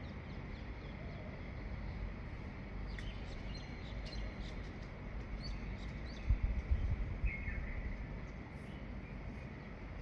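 Birds chirping at dawn: short, high calls clustered through the middle, with one longer call a little past halfway, over a steady low rumble. A few low thumps come just past halfway.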